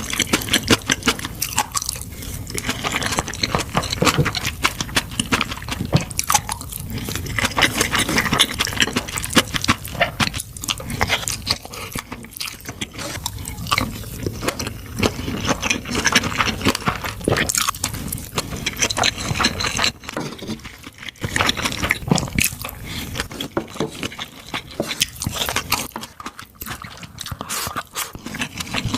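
Close-miked eating sounds: a person chewing and biting kimchi fried rice and kielbasa sausage, with many quick wet clicks and smacks of the mouth, in irregular runs.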